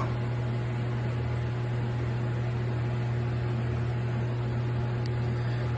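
Steady low mechanical hum with an even hiss underneath; no bird calls are heard.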